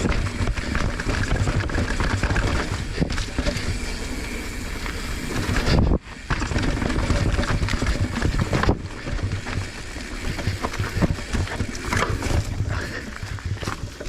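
Mountain bike ridden down a rough, rocky trail, as heard from a camera on the bike or rider: wind rushing over the microphone and tyres rolling over dirt and rock, with frequent rattling knocks. The sound drops away sharply for a moment about six seconds in.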